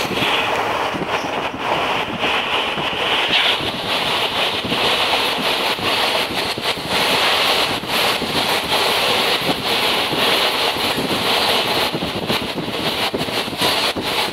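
A moving train's running noise heard from aboard, with wind rushing over the microphone. The steady rush is broken throughout by quick buffets and rattles.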